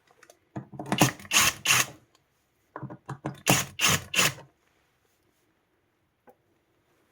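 Clusters of rapid clicks and knocks from hard parts being handled, in two bursts of about a second and a half each, the second starting about three seconds in, then one faint tick.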